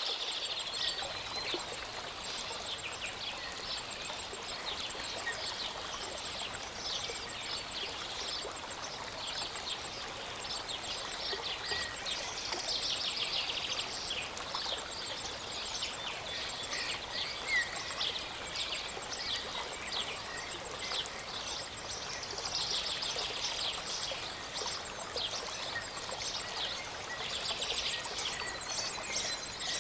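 Small mountain waterfall running steadily, with many birds chirping and singing over the water throughout.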